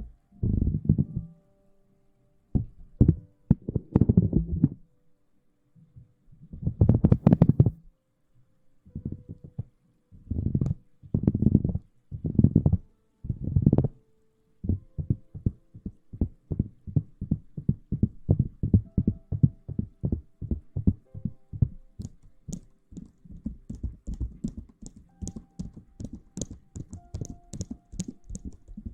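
Close-miked ASMR rustling and rubbing against the microphone in loud bursts, first in separate clumps, then from about halfway a fast, even run of strokes with a crisp, crackly edge.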